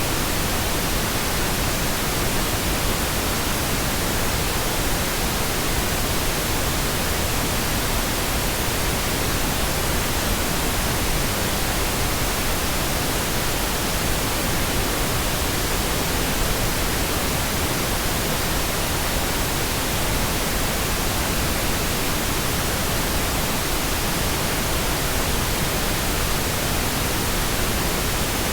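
Pink noise: a steady, even hiss across the whole frequency range, unchanging throughout.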